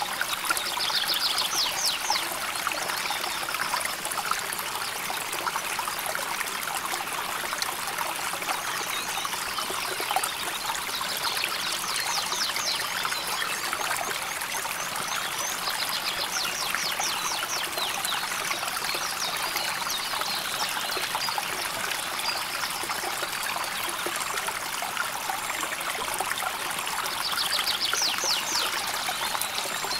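A river flowing and babbling steadily over stones, a continuous trickling water sound. Four times a short, high, rapid trill cuts through, most likely a small bird.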